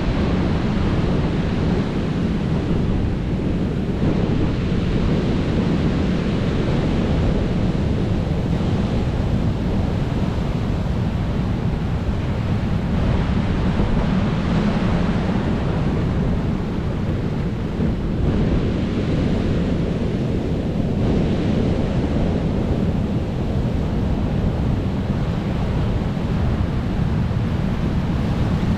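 Sea surf: a continuous rush of waves breaking and washing in, with gentle swells every several seconds and a low wind rumble on the microphone.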